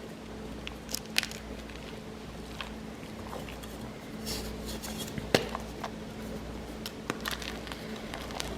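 Blocks of gym chalk being squeezed and crumbled, giving soft crunches and scattered crackles, with a sharper crack a little after five seconds.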